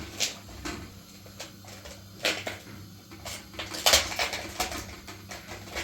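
Irregular light knocks and clinks of objects being handled, the loudest about four seconds in.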